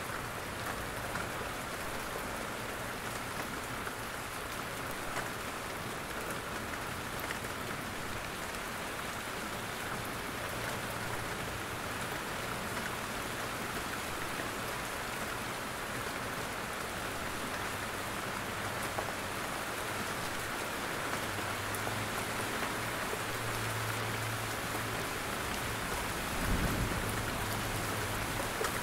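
Steady rain falling through trees, with drops dripping from the leaves and occasional single drops ticking close by. A low rumble comes in during the last several seconds, briefly swelling near the end.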